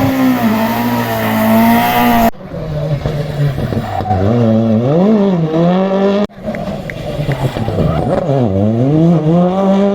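Rally car engines driven hard in three short clips with abrupt cuts between them. The engine note climbs and drops as the cars rev up and come off the throttle.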